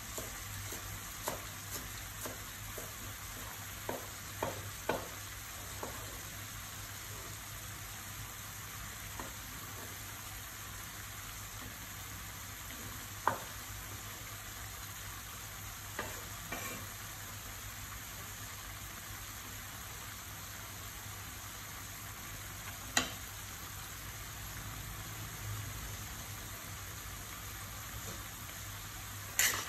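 Cabbage and greens sizzling in a wok, a steady frying hiss with scattered sharp pops. A louder knock comes just before the end.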